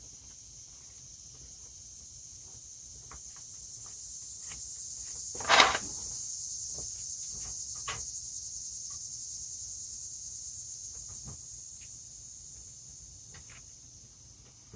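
Steady high-pitched insect chorus that swells and fades again, with one loud clunk about five and a half seconds in and a few light clicks.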